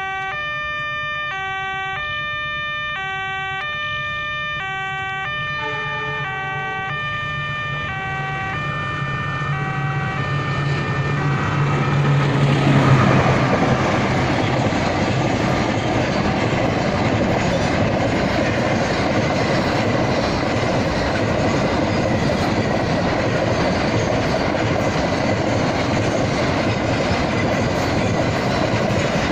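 A railway level-crossing warning alarm repeats a stepped sequence of electronic tones as a diesel locomotive's engine grows louder. About twelve seconds in, a freight train passes, its wheels clattering over the rail joints, loudest just after the locomotive goes by.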